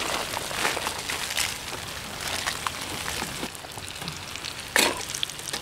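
Pork makchang sizzling in a frying pan as its fat renders, with a steady crackle and scattered pops, and one sharp crack about five seconds in.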